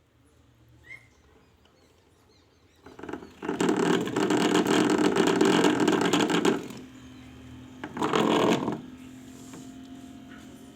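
Homemade vacuum cleaner's small electric motor running: switched on about three seconds in for roughly three seconds, then given a second short burst, leaving a faint steady hum.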